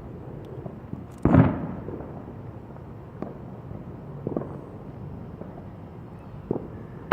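Consumer fireworks going off. A loud bang comes about a second in and rings out, a few fainter pops follow, and another bang comes at the very end.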